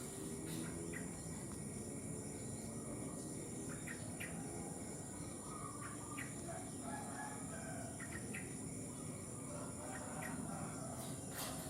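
Yellow-vented bulbul (trucuk) giving short chirping call notes at intervals of a second or two, with a rooster crowing faintly in the background and a steady high-pitched insect drone.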